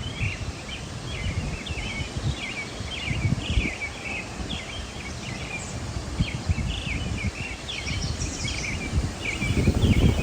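Birds chirping steadily in many short, overlapping calls, with gusts of wind buffeting the microphone in low rumbles, strongest near the end.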